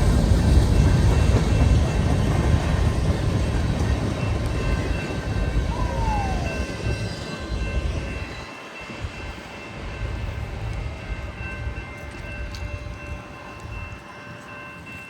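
Freight train cars rolling past a grade crossing, a heavy low rumble of wheels on rail that fades over the second half as the train moves off. Steady high ringing tones from the crossing signal carry through, and a brief falling squeal sounds about six seconds in.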